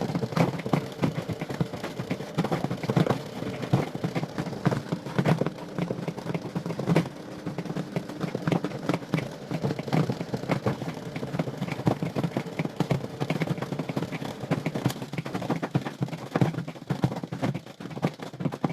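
Spin dryer of a Roch 7 kg twin-tub washing machine spinning wet laundry: a steady motor hum with constant rattling and clatter.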